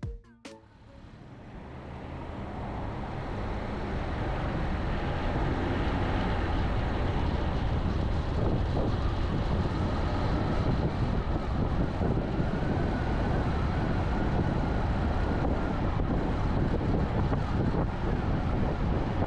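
Steady road and wind noise of a car driving at highway speed, with a low rumble, fading in over the first few seconds as a short stretch of music ends.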